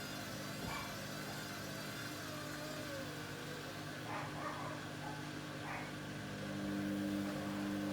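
Hoover Dynamic Next DXA 49W31-8C washing machine running on its Rapid 14 programme: a steady motor hum with one tone that wavers in pitch, and a few short swishes from the tumbling drum. The hum grows louder and stronger about two-thirds of the way through.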